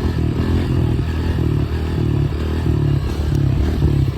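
Honda CRF125F's single-cylinder four-stroke engine running hard under throttle in second gear during a wheelie, its note wavering up and down as the throttle and clutch are worked.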